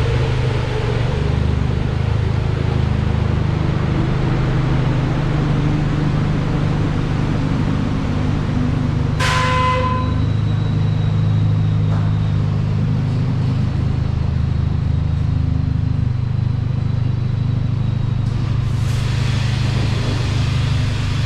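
Gas-station automatic car wash running, heard from inside the car: a steady low rumble of machinery with water spray hissing over it. About nine seconds in comes a brief sharp sound with a short tone in it.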